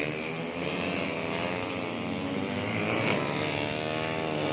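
Engines of 150cc four-stroke underbone race motorcycles running at high revs, a steady drone whose pitch drifts slowly up and down.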